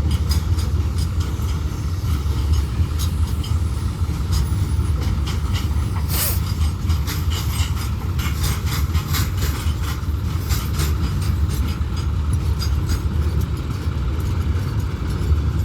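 A heavy vehicle running with a steady low rumble, with scattered light clicks and one sharper click about six seconds in.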